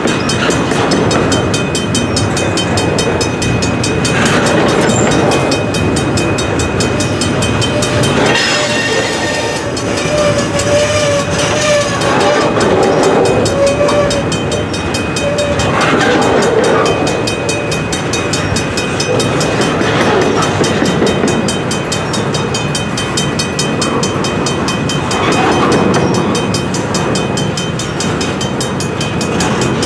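Double-stack intermodal well cars rolling slowly past a grade crossing: a steady rumble and clatter of wheels on rail, with the crossing bell ringing over it. A wavering squeal rises out of the train noise about 8 seconds in and fades by about 13 seconds.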